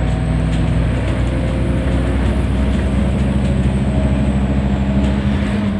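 Scania N230UD double-decker bus's diesel engine and drivetrain running on the move, heard from inside the passenger cabin; the engine note shifts and strengthens about halfway through.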